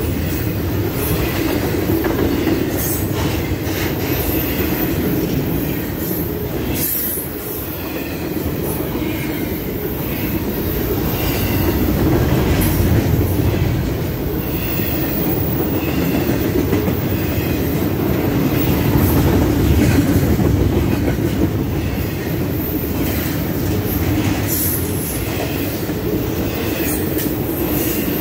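Double-stack intermodal container cars of a freight train rolling past: a steady rumble of steel wheels on the rails, with scattered clicks and knocks from wheels and couplers.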